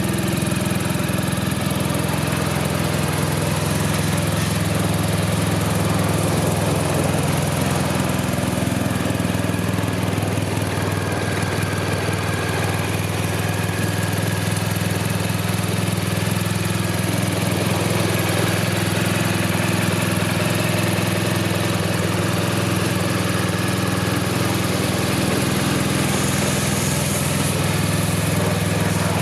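BMW R1250 GS's 1254 cc boxer twin engine idling steadily.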